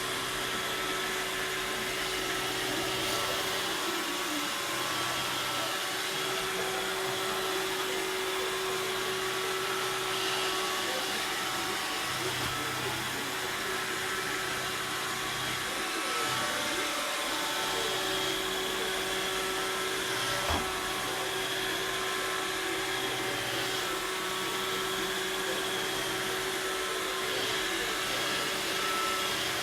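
Robot vacuum cleaner running steadily, a whirring motor with a high whine, with a single short knock about twenty seconds in.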